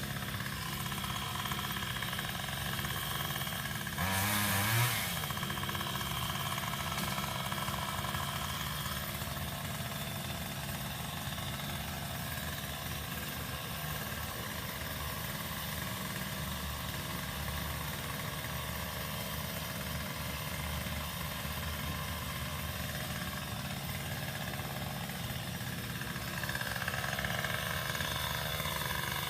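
Small engine running steadily at idle, with a brief rev about four seconds in and a rise in level near the end.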